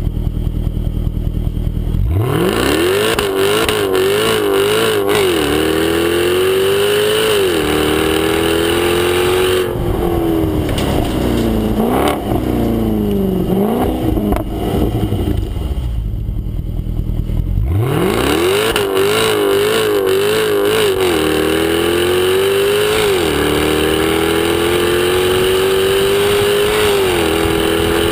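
Jaguar XKR-S's 5.0-litre supercharged V8 idling, then accelerating hard about two seconds in, its pitch climbing and dropping sharply at each of several upshifts. The revs then fall as it slows, with a few short rises on downshifts, and it settles before a second full-throttle run with upshifts begins past the middle.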